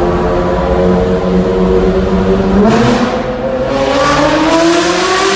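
Ferrari 360 Challenge Stradale's V8 engine heard from inside the cabin, running at steady revs. About halfway through its pitch jumps up and then keeps climbing as the car accelerates.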